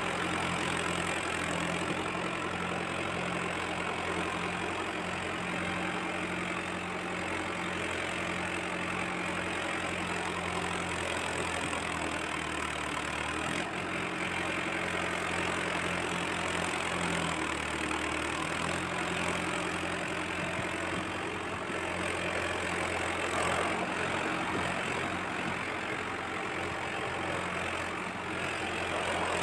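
Mahindra tractor's diesel engine running steadily under way, its note dipping briefly twice near the middle.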